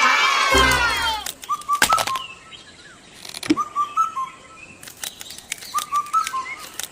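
Small birds chirping. A loud, dense burst of many falling whistly calls in the first second, then a short chirping phrase repeated about every two seconds, with scattered sharp clicks and a low thump early on.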